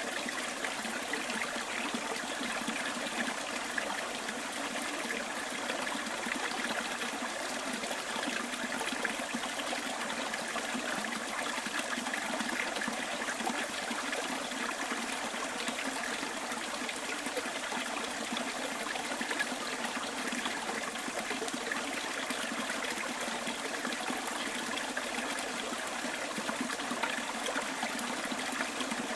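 A small stream flowing and trickling steadily, with an even, unbroken rush of water.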